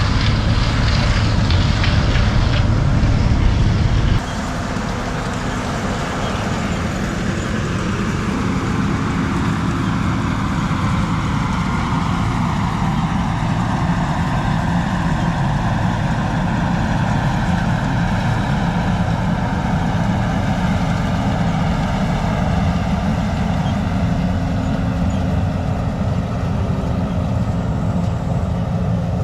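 Gleaner L2 combine harvester running in the field, a steady heavy machine drone. About four seconds in the sound cuts abruptly to a quieter steady hum whose pitch then slowly falls.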